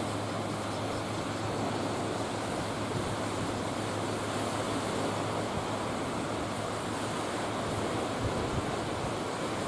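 Steady rush of sea water and wind with a steady low drone underneath.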